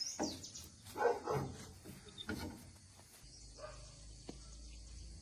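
A dog barking several times in short, separate barks, followed by a faint low steady hum.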